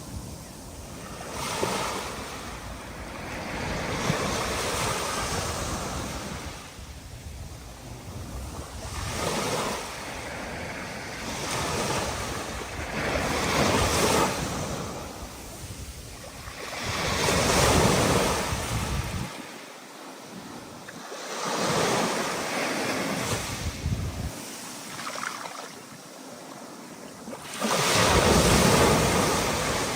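Storm surf: heavy ocean waves breaking one after another, the roar swelling and falling back every four or five seconds, with wind blowing underneath.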